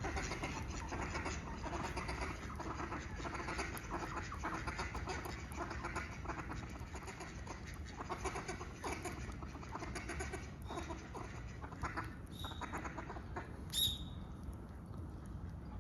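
Birds calling by a river: a dense, continuous run of short, rapid calls, with a single sharp high call about fourteen seconds in.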